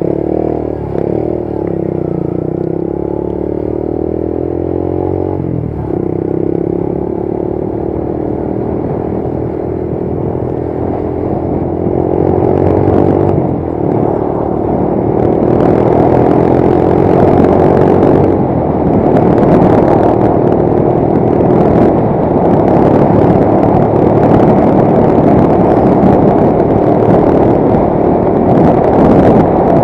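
Motorcycle engine accelerating, its pitch rising in steps through the gears, then running at speed while wind and road noise grow louder from about halfway.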